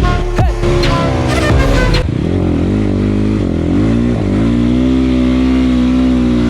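Background music with rapping for about two seconds, then a sudden cut to an enduro motorcycle's single-cylinder engine being revved. Its pitch dips and climbs twice, then holds a steady high rev near the end.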